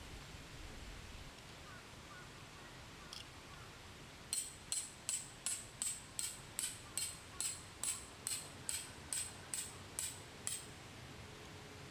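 A tent peg being hammered into the ground: about sixteen sharp, evenly paced metallic strikes, some two and a half a second, starting about four seconds in and stopping near the end.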